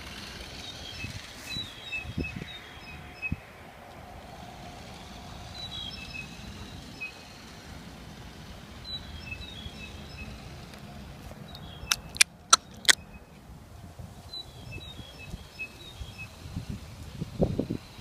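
A bird singing short chirping phrases every few seconds over a steady low outdoor rumble, with four sharp clicks in quick succession about twelve seconds in.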